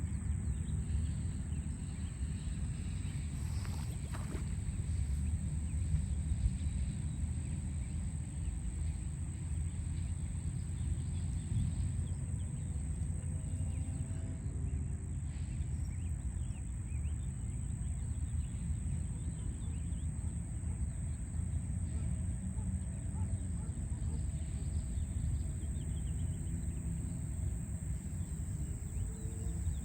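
Steady low rumble of city traffic in the background, with faint bird chirps now and then and a steady high thin tone.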